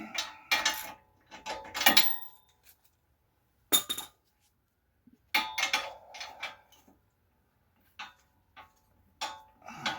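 Metal hand tools clanking and clinking against steel brake and hub parts: irregular ringing metallic knocks and clatter, a few loud strikes spread through, with quiet gaps between.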